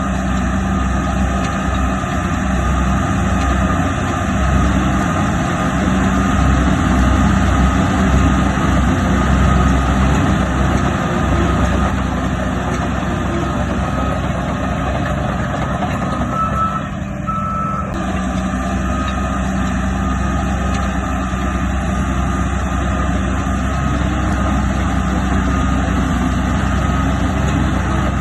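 Diesel engine of heavy earthmoving machinery running, louder for several seconds from about four seconds in, with a reversing alarm beeping over it.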